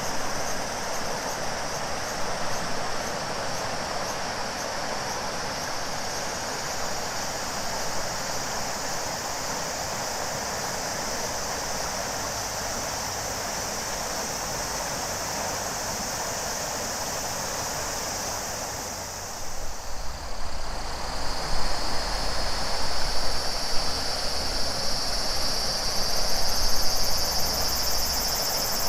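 River water flowing steadily, with cicadas shrilling high above it. About two-thirds of the way in the cicada chorus changes to a lower, finely pulsing shrill and an uneven low rumble comes and goes beneath the water.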